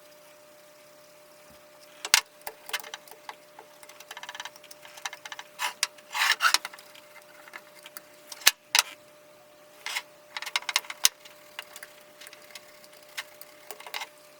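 Hand work on small metal parts: irregular clicks, light knocks and short scrapes, with a few sharp louder knocks, over a faint steady hum.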